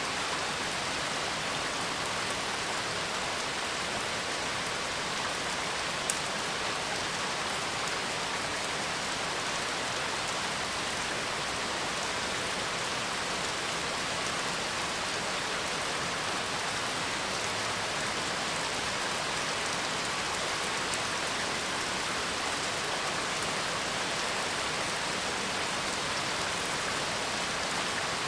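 Steady, even rain, with one brief click about six seconds in.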